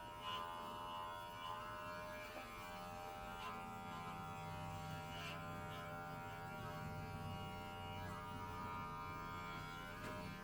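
Electric pet hair clipper running steadily and faintly through the cat's fur, with a few light clicks.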